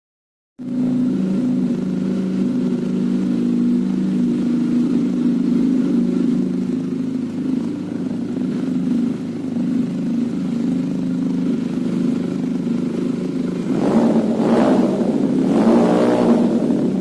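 Benelli TNT 300's parallel-twin engine idling steadily through its exhaust while warming up, with two short throttle blips near the end.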